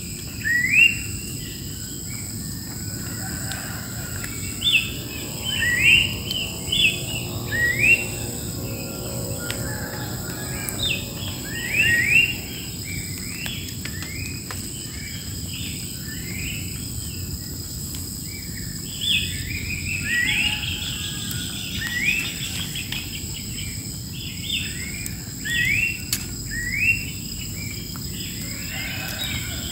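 Wild birds singing, a busy run of short rising chirps repeated at irregular intervals, over a steady high-pitched insect drone.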